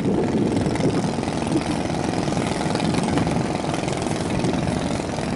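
Long-tail boat engine running steadily.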